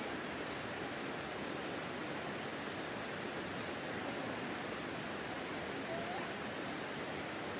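Campfire burning with a steady rushing hiss and a few faint crackles.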